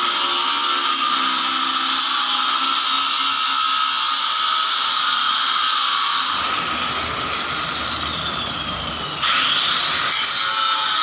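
Power tool motor running steadily with a high whine. About six seconds in it slows, the whine falling in pitch. About three seconds later it speeds back up with a rising whine.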